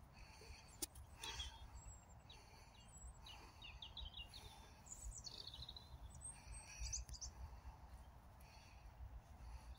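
Faint birdsong: scattered high chirps and a short falling trill about five seconds in, over a steady low background rumble.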